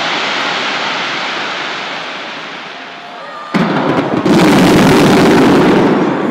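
Aerial fireworks in a dense barrage of bursts and crackle. It fades a little over the first few seconds, then a sudden louder salvo starts about three and a half seconds in and is loudest near the end.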